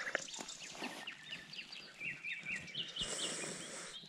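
Wild birds calling, many short chirps and whistled notes repeated one after another, with a brief hiss about three seconds in.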